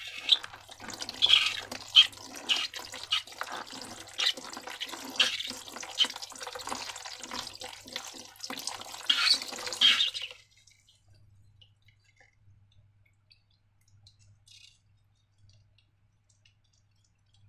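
Slime squelching and clicking wetly as it is squeezed and worked, in a dense, irregular run of sticky smacks for about ten seconds that then stops.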